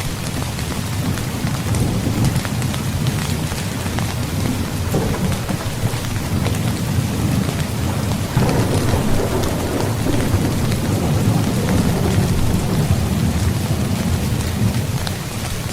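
Heavy rain falling steadily, with thunder rumbling low beneath it. The rumble swells about five seconds in, then again more strongly a little past halfway, easing near the end.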